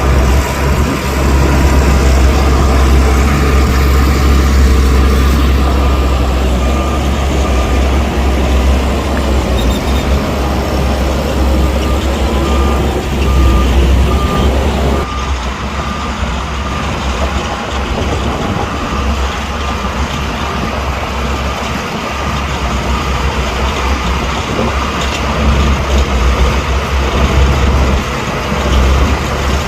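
Heavy diesel earthmoving machinery working: the deep, steady engine of a bulldozer or dump truck. A backup alarm beeps repeatedly through the middle, and the engine sound changes abruptly about halfway and runs on lighter.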